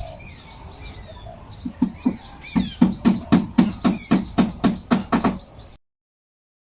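Birds chirping in quick repeated high notes, joined about two seconds in by a rapid series of sharp knocks, about four a second. The sound cuts off abruptly near the end.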